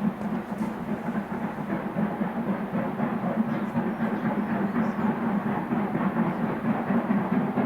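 A train running along the line, a steady rumble of wheels on rails that grows slowly louder.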